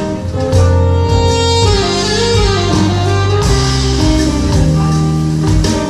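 Live Latin music from a small band: steady bass notes under held chords, with a melody line that bends up and down in pitch about halfway through.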